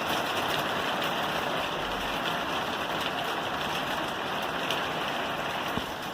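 Steady rain falling on a roof, an even hiss of many drops.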